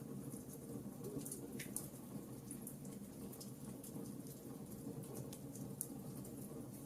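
Wood fire of burning logs: a steady low rush of flames with frequent small, irregular crackles and pops.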